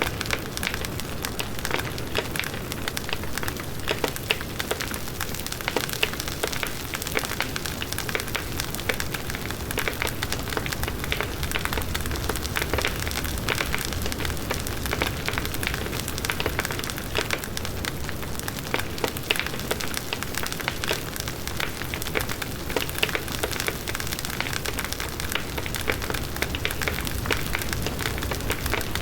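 Large wood bonfire burning steadily: dense crackling and popping of the burning wood over a low rush of the flames.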